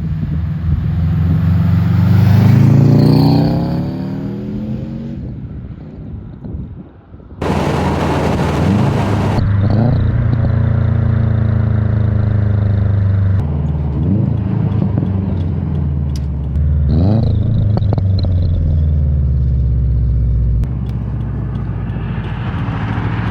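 Turbocharged car with an aftermarket exhaust accelerating past, its engine note rising and then fading away. After a sudden cut, the engine runs steadily with two short revs.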